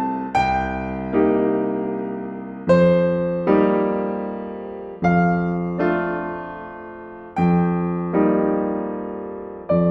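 Slow solo piano music: soft chords struck in pairs, roughly every two and a half seconds, each left to ring and fade.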